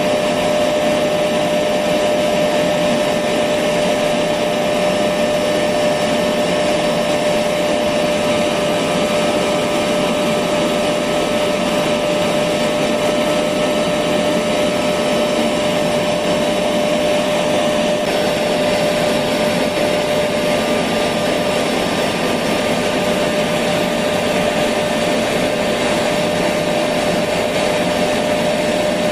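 Electric vacuum cleaner running steadily: a constant whooshing motor noise with a steady whine, played as a continuous white-noise sound for lulling a baby to sleep.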